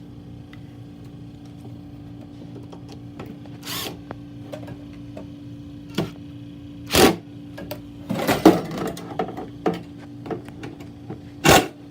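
Screws being driven into the Blizzard machine's bracket with a power driver: a short rattling burst of driving with several sharp metal knocks around it, over a steady hum.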